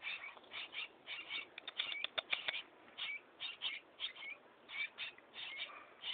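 Baby myna chicks giving rapid, harsh begging calls, several short cries a second, with a denser run of them about two seconds in: the begging of nestlings being fed.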